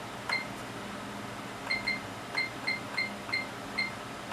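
Short, high-pitched electronic beeps from the HP 3245A's front-panel beeper, about seven at uneven spacing and several close together in the second half, some with a light key click, over the steady hum of the instrument's cooling fan.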